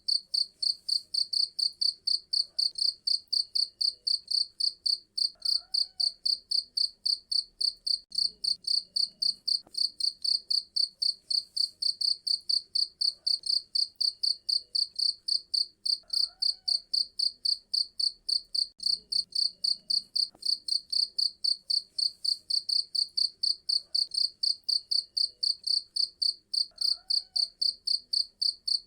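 Cricket chirping steadily, a high-pitched chirp repeated evenly about three times a second.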